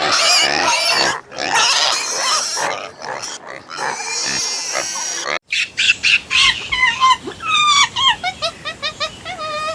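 Pigs squealing harshly. About halfway through it cuts abruptly to a run of short, high calls that slide down in pitch, several a second.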